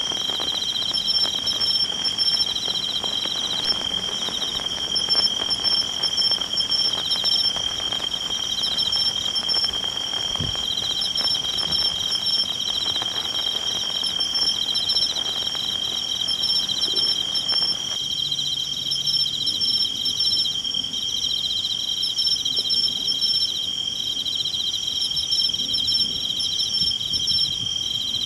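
A chorus of insects singing: a steady high-pitched chirring with a faster pulsing trill above it. A rushing hiss underneath drops away about two-thirds of the way through.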